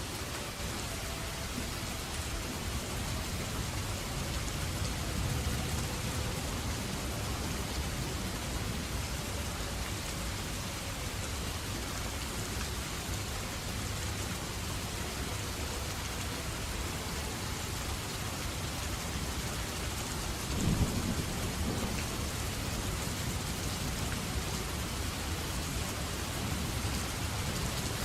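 Steady heavy rain falling with low rumbling thunder underneath. A sudden, louder thunder crack comes about two-thirds of the way through.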